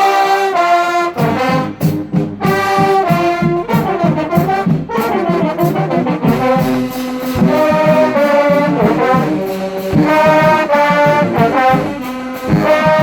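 Marching band playing: trumpets and trombones sounding held, loud notes over a drum beat.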